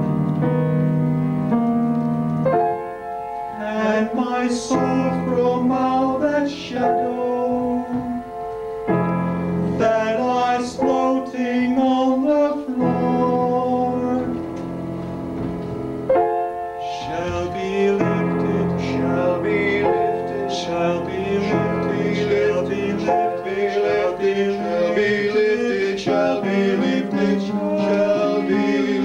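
Piano music, with singing at times.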